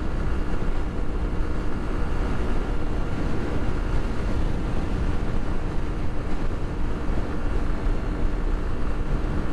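Yamaha XTZ 150's single-cylinder engine pulling steadily at about 7000 rpm up a highway grade, under heavy wind rushing over the onboard microphone.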